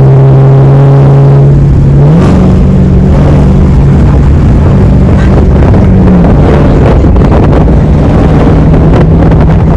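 Car engine and exhaust droning loudly under way, with wind noise on the microphone; the engine note steps up about two seconds in, drops back around six seconds, and rises again near the end as the revs change.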